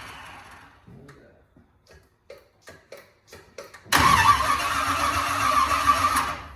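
Freshly rebuilt 305 small-block Chevy V8 being cranked over by its starter on a first attempt to fire it. The cranking starts suddenly about four seconds in, runs about two and a half seconds without the engine settling into a run, and stops abruptly. A few light clicks come before it.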